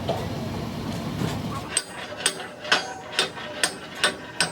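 A hammer striking metal with a steady rhythm of about two blows a second, seven strikes starting a little before halfway, each with a short ring. Before the blows start, a low steady rumble dies away.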